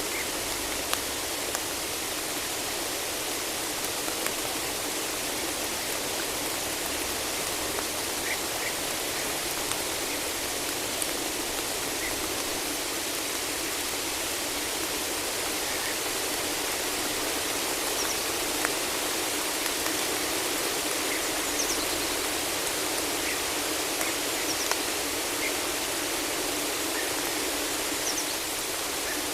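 Steady rain falling in a forest: an even hiss with small sharp drips now and then, and faint short bird calls here and there.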